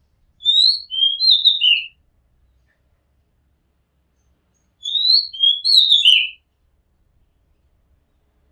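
Oriental magpie-robin singing: two short phrases of clear, sliding whistled notes, the second about three seconds after the first and much like it.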